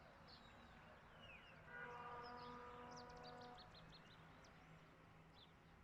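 Small birds chirping faintly, with a steady pitched tone held for about two seconds starting near two seconds in, over a faint low hum.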